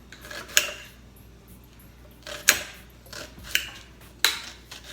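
A kitchen knife knocking on a cutting board a few times at an uneven pace while vegetables are cut up.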